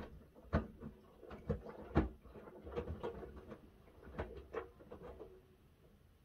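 Miele W1 front-loading washing machine drum turning a load of wet laundry: an irregular string of soft thumps and sloshes for about five seconds, then the drum stops for its pause.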